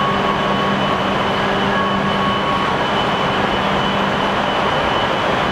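Steady noise of a Hokuriku Shinkansen train, a low hum with a couple of higher steady tones over it, unchanging throughout.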